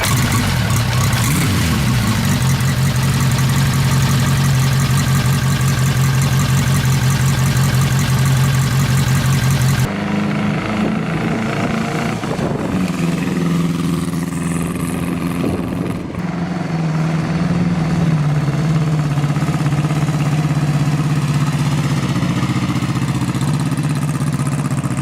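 Ariel Square Four motorcycle's air-cooled, overhead-valve square-four engine running at a steady speed. After a cut about ten seconds in, a second recording follows in which the pitch rises briefly and then holds steady at a higher engine speed.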